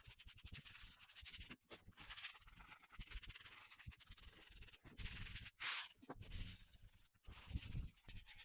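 Wet sponge scrubbing over dried drywall joint compound in faint, repeated rubbing strokes, used in place of sandpaper to smooth the mud without dust.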